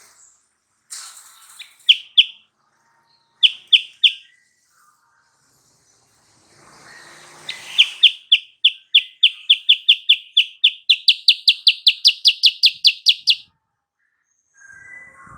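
Silver-eared mesia (kutilang sutra) song: a few loud, clear single notes, then a long fast series of repeated notes that quickens and steps up in pitch partway through before stopping abruptly.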